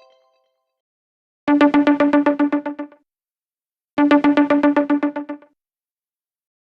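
Electronic alarm tone played backwards: two identical bursts of rapid beeping, about ten pulses a second on a steady low tone with overtones. Each burst lasts about a second and a half, with a second of silence between them.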